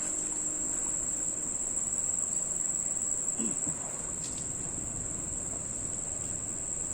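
Insects calling in a steady, unbroken high-pitched drone.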